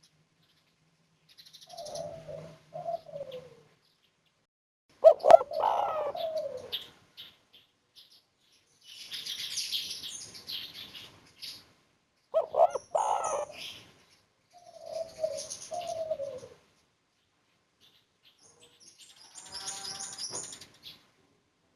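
Spotted dove (tekukur) cooing in four separate phrases of the 'kuk 1' call type. Other small birds chirp high-pitched between the phrases and near the end.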